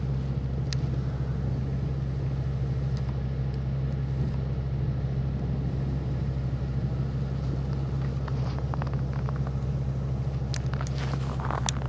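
A vehicle engine idling: a steady, unchanging low hum, with a few light clicks near the end.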